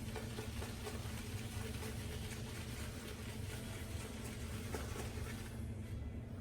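Boar-bristle shaving brush worked over a puck of Erasmic soap to load it, a steady swishing that stops about five and a half seconds in, over a steady low hum.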